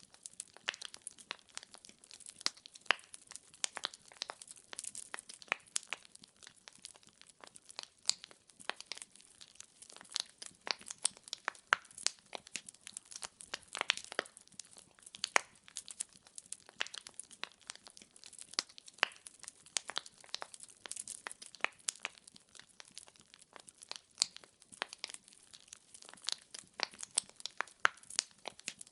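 Wood fire crackling in a fireplace: burning logs give off a dense, irregular run of sharp pops and snaps, several a second, over a faint hiss.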